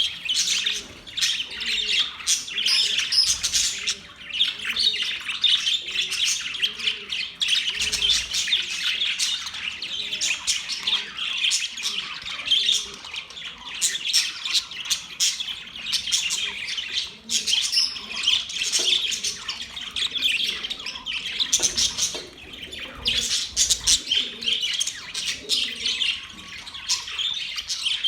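Budgerigars chirping and warbling without pause, with many short chirps and squawks overlapping, as from several birds together.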